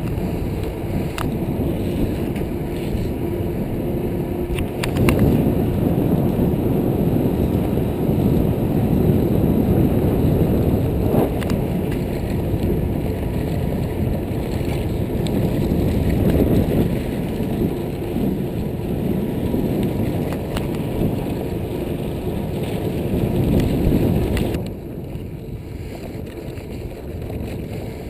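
Wind rushing over an action camera's microphone, along with the tyre and frame noise of a mountain bike ridden fast off-road, and a few knocks. It gets louder about five seconds in and drops suddenly near the end.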